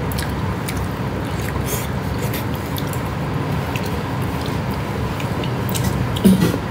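A person chewing and eating soft tomato-and-egg stir-fry close to the microphone, with small wet mouth clicks, over a steady low background hum.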